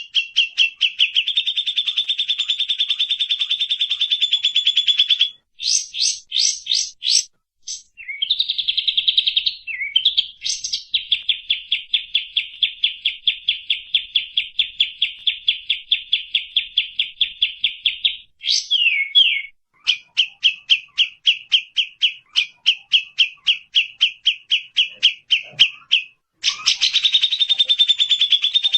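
Bird song in long runs of fast, evenly repeated sharp notes, like a rapid trill, broken by brief pauses and a few slower single notes between runs.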